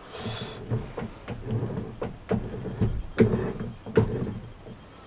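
Repeated metallic knocks and scrapes from a metal lathe being used to broach a keyway, the tool taking a light cut on each stroke. There are about eight strokes at an uneven pace, and they stop about four and a half seconds in.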